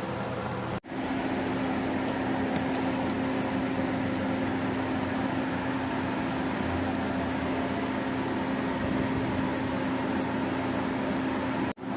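Steady machine hum with a constant low tone, like a fan running, broken by two brief silent cuts about a second in and near the end.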